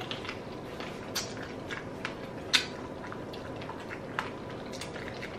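Eating sounds: wet chewing and scattered mouth clicks from chewing curry chicken, over a steady background hiss. The sharpest click comes about two and a half seconds in.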